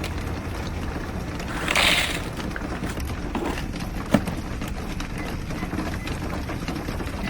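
Rain falling steadily on a small camper's roof, with many faint drop ticks; a brief louder hiss comes about two seconds in and a single sharp knock about four seconds in.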